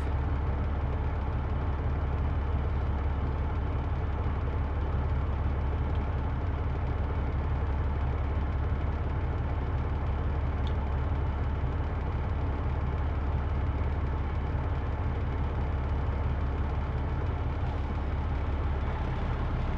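Big-rig truck's diesel engine running steadily with an even low hum, unchanging throughout.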